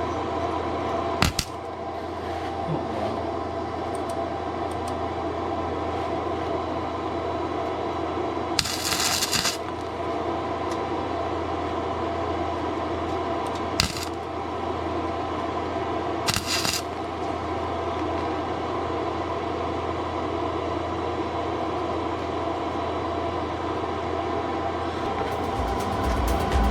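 Flux-core wire welder humming steadily with its fan, broken three times by short crackling bursts of arc as tack welds are laid on exhaust pipe: one about a second long near the middle, then two briefer ones a few seconds apart.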